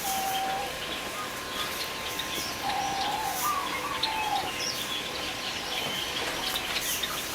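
Birds calling: a few short, wavering whistled phrases, with scattered higher chirps among them.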